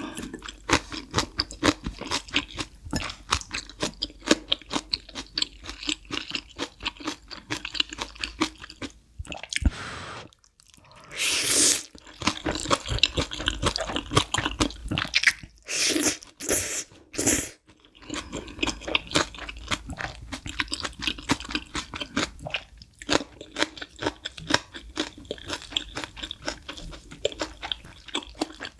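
Close-miked chewing and crunching of green onion kimchi and Chapagetti black bean noodles, with rapid wet clicks throughout. A few short, loud slurps of noodles come near the middle.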